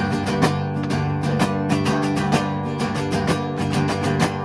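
Guitar music: a guitar playing a steady, quick run of notes in an instrumental passage of a song.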